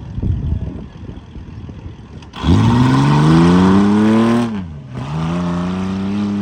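Off-road competition truck's engine revving hard twice: a low rumble with a few knocks, then a quick climb to a loud, high, held pitch for about two seconds, a dip, and a second held rev that falls away near the end.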